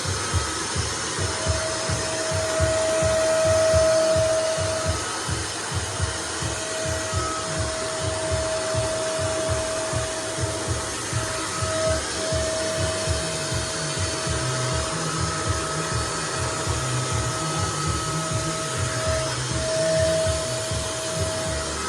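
Nunix wet and dry vacuum cleaner running continuously: a steady rush of air under a whining motor tone that briefly dips out now and then.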